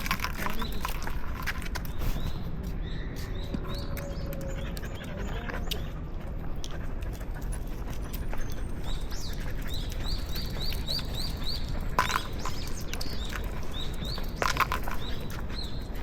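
Small birds chirping in short repeated notes, with a quick run of about six chirps around ten seconds in, over a steady low street hum. A couple of sharp clicks stand out near the end.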